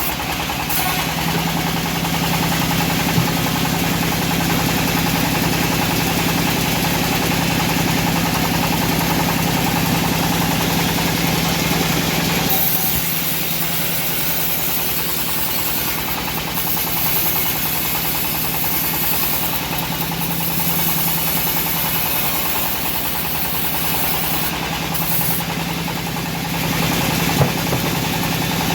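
Homemade engine-driven bandsaw mill running steadily with a constant engine hum and blade noise. The high, hissy part of the sound shifts about halfway through.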